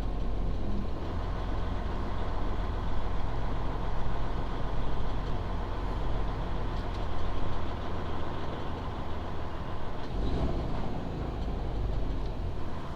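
A semi truck's diesel engine running with a steady low rumble.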